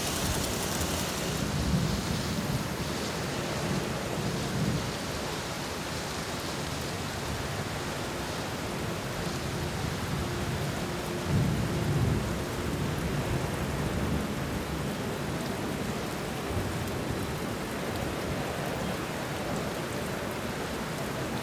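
Steady rain with low rolls of thunder; the loudest rumble comes about eleven to twelve seconds in.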